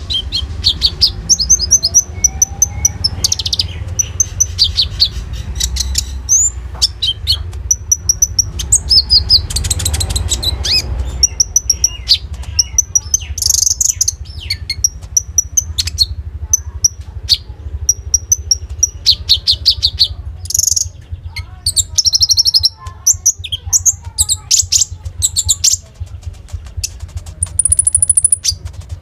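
A konin sunbird singing loudly and fast: rapid high chirps and rattling trills, strung together with mimicked phrases of other birds, over a steady low hum.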